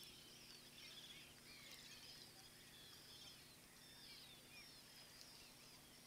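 Faint chorus of birds: many short, high, overlapping chirps scattered throughout, over a quiet steady hum.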